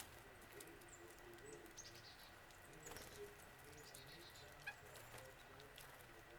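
Faint wild bird calls: scattered short high chirps, with low wavering notes underneath near the start and again about three seconds in.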